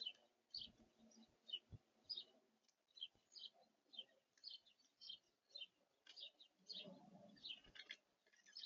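Faint, repeated short chirps of small songbirds at a winter feeder, about two a second, with a lower, softer bird call about seven seconds in.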